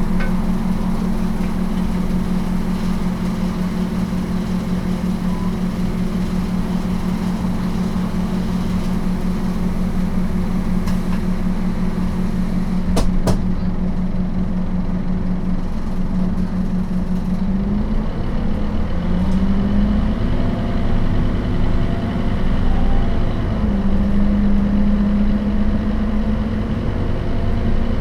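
Scania DC9 five-cylinder turbodiesel of a Scania K270UB bus running at a steady idle, with a sharp click about 13 seconds in. From about 17 seconds the engine pitch rises and shifts in steps as the bus pulls away through its ZF automatic gearbox.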